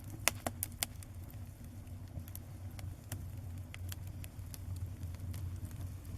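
Small fire crackling as it burns paper, with a cluster of sharp pops in the first second and scattered pops after, over a low steady rumble.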